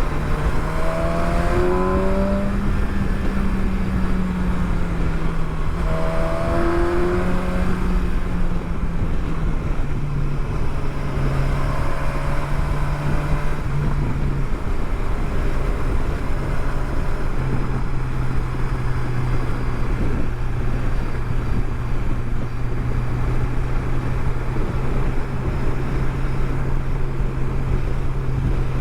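Motorcycle engine running while riding, with steady wind rush. The revs rise twice in the first seven seconds as the bike accelerates, then the engine settles to a steady drone.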